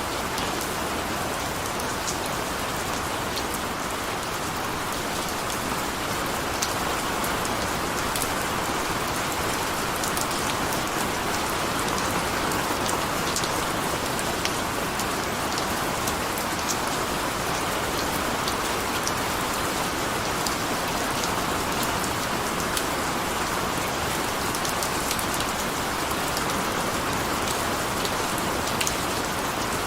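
Steady rain falling, an even hiss sprinkled with many sharp, scattered drop ticks.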